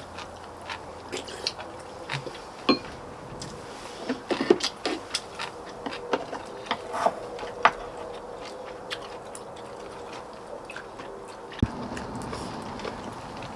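Eating sounds of people working through chicken soup: chewing, with irregular small clicks and taps scattered throughout, busiest in the middle, over a faint steady hum.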